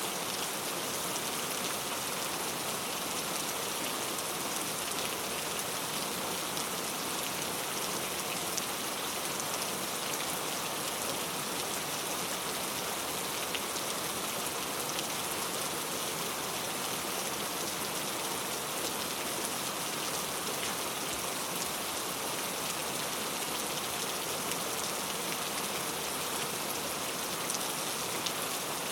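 Very heavy rain falling steadily, a dense even wash with fine drop impacts pattering through it.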